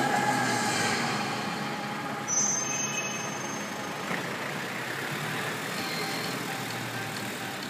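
Road traffic: a large vehicle's engine running amid steady street noise, with a brief high squeal a little over two seconds in.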